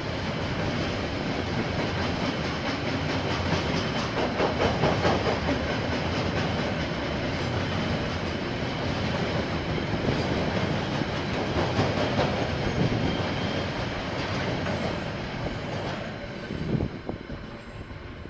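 A KiwiRail train passing on the track, its wagon wheels clattering over the rails in a continuous rolling noise that fades off near the end.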